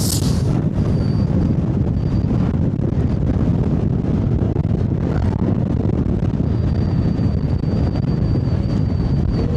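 Wind buffeting the microphone of a moving electric scooter rider: a loud, steady low rumble, with a brief hiss right at the start and a faint thin high whine that comes and goes, steadier in the second half.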